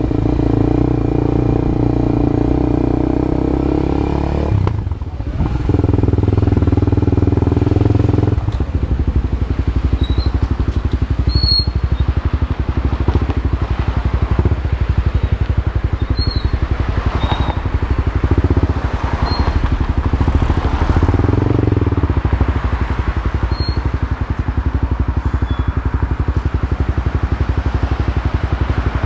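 Honda CB Twister's single-cylinder engine running through a new aftermarket exhaust. It holds a steady note, dips briefly about five seconds in, then from about eight seconds in settles into a pulsing beat with a few swells in revs.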